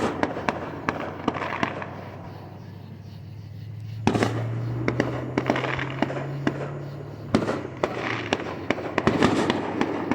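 Fireworks going off: a rapid series of sharp bangs and pops, with a big burst about four seconds in followed by crackling.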